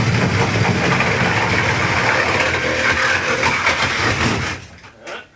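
A power tool running steadily for about four and a half seconds, with a low motor hum under a loud hiss, then winding down and stopping near the end.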